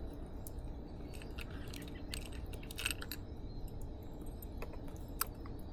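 Light handling noises, a few scattered clicks and taps in small clusters, over a steady low background hum.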